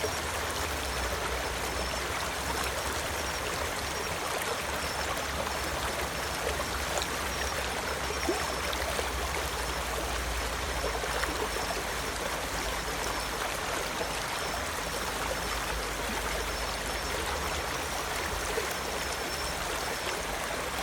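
Mountain valley stream flowing steadily, an even rush of water without a break.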